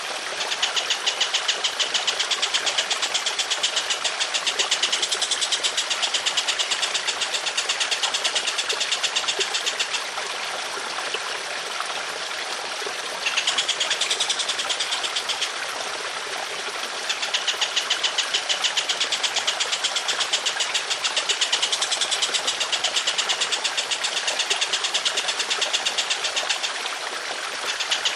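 Songbird singing long, rough, very rapid rattling trills in sustained bursts over steadily trickling water; the trill breaks off three times, leaving only the water.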